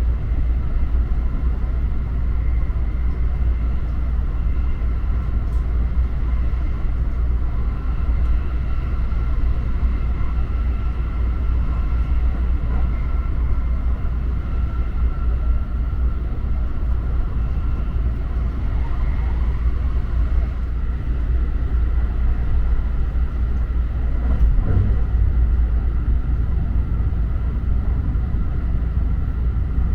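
Steady low rumble of a JR Special Rapid Service electric train running along the line, heard from inside the passenger car, with faint steady high tones above it and a short knock about three quarters of the way through.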